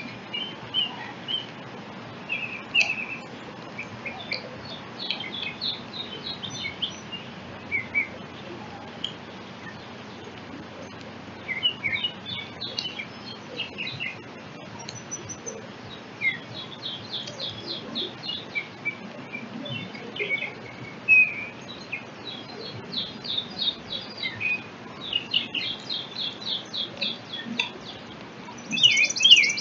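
Songbirds chirping and calling again and again, with scattered single chirps and several quick rapid trills, the loudest of them near the end.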